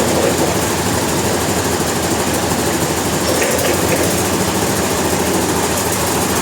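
A sawmill's engine running steadily with a fast, even pulsing.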